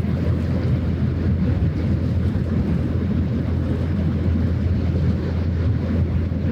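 Steady low drone of a passing ship's engine, with wind rumbling on the microphone.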